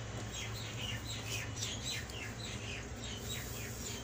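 A small bird chirping over and over, a quick series of short, falling chirps at about four a second.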